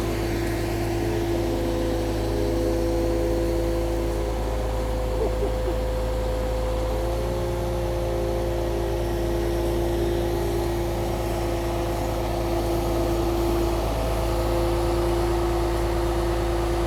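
Truck-mounted crane's engine running steadily while it holds a load on the hook, a low rumble with a steady whine over it.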